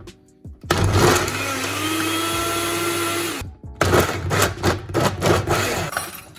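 Electric blender running for about two and a half seconds, its motor rising in pitch as it spins up, then holding steady before it stops. After a short pause come a few seconds of irregular clattering knocks.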